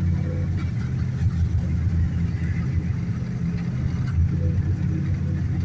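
1986 Dodge D-150 pickup's carbureted engine running steadily at a fast idle held on the throttle pedal, freshly cold-started below zero with no choke.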